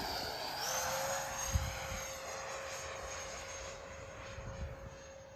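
Twin 70mm electric ducted fans of an RC jet whining as it passes low and flies away. The pitch drops just as it goes by, then holds steady while the sound fades.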